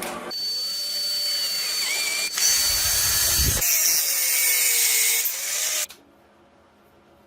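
Power tool running on the work with a noisy, wavering pitch, cutting out sharply about six seconds in and leaving only faint room noise.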